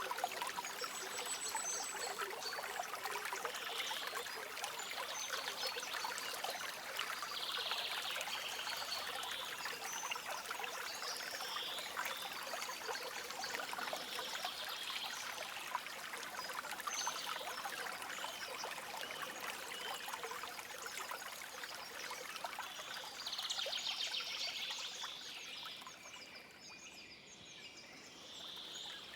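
Stream water trickling and babbling over stones, with faint bird chirps here and there; the flow quietens for a few seconds near the end.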